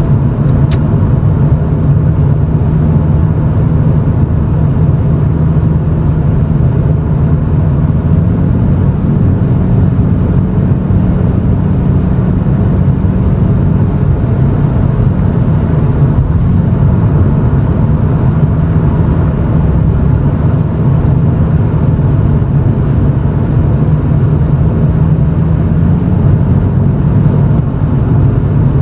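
Toyota Chaser GX100's 2.0-litre 1G-FE straight-six exhaust heard from inside the cabin, a steady low drone while cruising at low speed. It runs through an aftermarket Reinhard cannonball muffler with mid-pipe and silencer insert fitted.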